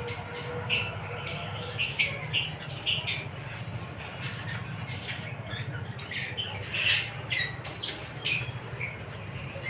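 Lovebirds chirping and squawking: many short, shrill calls overlapping in quick succession, busiest about seven seconds in, over a steady low hum.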